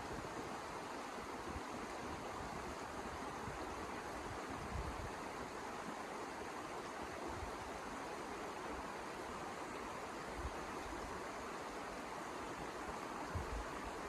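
Steady rushing noise with a few faint low thumps.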